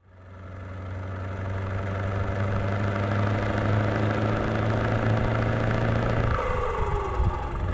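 Truck engine idling steadily, fading in; a little after six seconds in the sound changes, with a falling whine as the low running tone briefly drops away.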